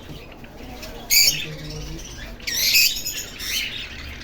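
Canary calling in three short, high-pitched chirping bursts about a second apart.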